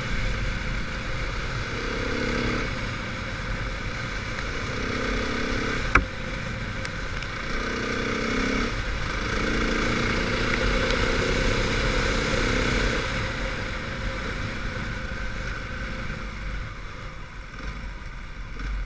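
KTM 450 single-cylinder four-stroke trail bike engine running while being ridden along a rough muddy track, its note changing every second or two with the throttle, over a rush of wind and tyre noise. One sharp knock about six seconds in.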